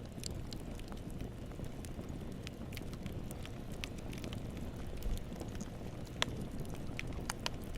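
Campfire burning: a steady low rumble with scattered sharp crackles and pops of burning wood, the loudest pop about six seconds in.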